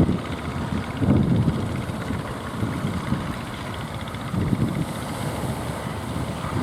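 Strong wind buffeting the microphone in irregular gusts, over a steady low rumble.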